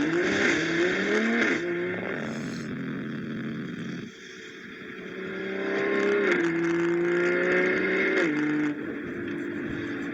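BMW M340i's turbocharged inline-six on an MHD Stage 2 tune, accelerating hard. The engine note climbs and drops at an upshift about a second and a half in, eases off briefly about four seconds in, then pulls again with two more upshifts near the end.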